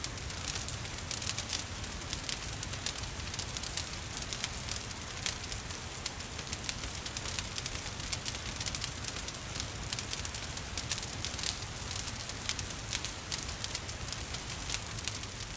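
Wood fire crackling with frequent small pops over a steady hiss of rain.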